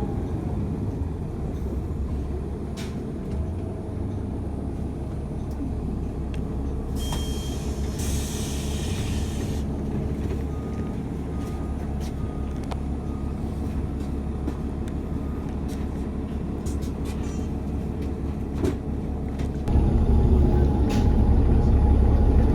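Interior of a city bus in motion: a steady engine and road rumble. About seven seconds in, a loud hiss of compressed air lasts about two seconds, like an air-brake release. Near the end the rumble gets louder.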